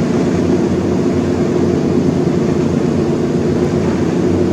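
A steady, unchanging droning hum with a few low fixed tones, like a running fan or ventilation unit.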